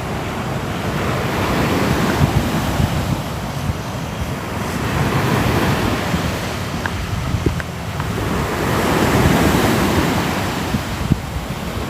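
Sea waves washing ashore, the surf swelling and easing in slow surges about every three to four seconds.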